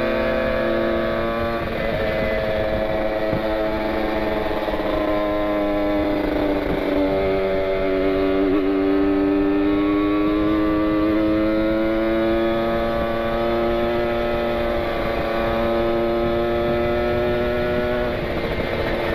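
Kawasaki Ninja 150 RR's single-cylinder two-stroke engine pulling hard on the move. The pitch shifts at gear changes about a second and a half in and around seven seconds, then climbs slowly for about ten seconds before another change near the end.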